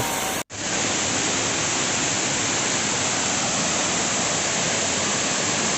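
Large waterfall heard close up: a steady, loud rush of water plunging from a height and splashing, with a split-second dropout about half a second in.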